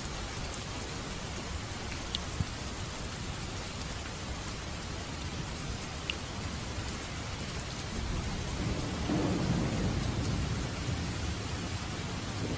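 Steady rain falling, with a few sharp drop ticks. About two-thirds of the way in, a low rumble of thunder swells and fades away again.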